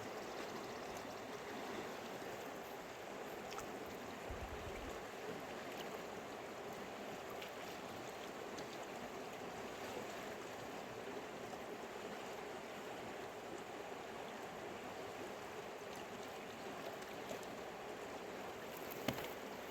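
Mountain river flowing, a steady rush of water. A single sharp click sounds near the end.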